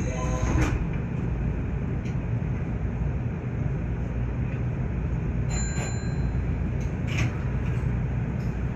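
Nankai 8300 series electric train running, a steady low rumble of wheels and running gear heard from inside the front car, with a few short clicks along the way.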